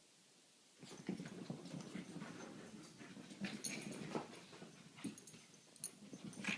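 Dogs playing: a busy run of scuffling and sharp clicks that starts suddenly about a second in.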